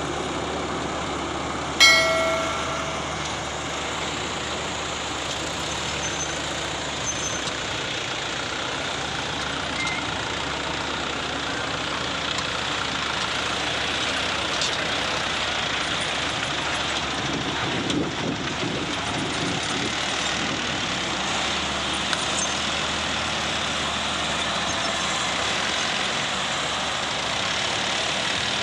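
Heavy truck running, a steady engine and road noise throughout. About two seconds in comes a short, loud pitched blast.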